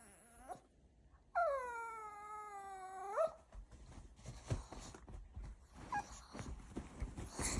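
Pomeranian dog giving one long howl about a second and a half in, lasting about two seconds, its pitch sagging and then rising sharply at the end. Soft rustling and tapping follow.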